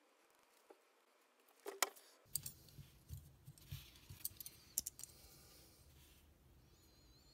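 Small metal parts handled in a quiet room: a run of sharp metallic clicks and short scrapes from about two to five seconds in, then faint low background noise.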